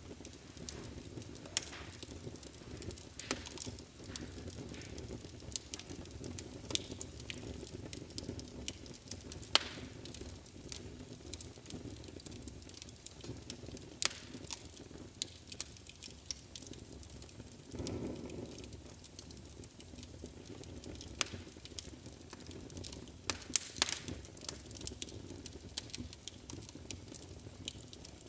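Wood fire burning in a fireplace, crackling with irregular sharp pops over a low, steady rush of flame. A few pops stand out louder than the rest.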